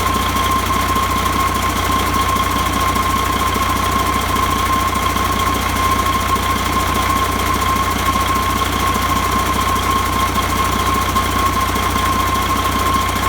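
Mercedes MBE4000 inline-six diesel engine running steadily, with a rapid clattering rattle and a steady high whine over it.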